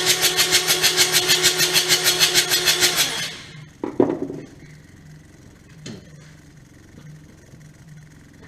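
Kubota D722 three-cylinder diesel being turned over by its electric starter, a steady starter whine under about five compression pulses a second, without firing; the cranking stops about three seconds in. A sharp clunk follows about a second later, then a few faint knocks.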